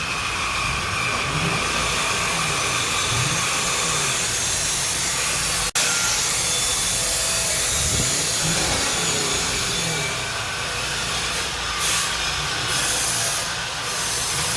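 Lexus LS430's 4.3-litre 3UZ-FE V8 through its stock exhaust, running with the revs rising and falling a few times, under a steady hiss of background noise.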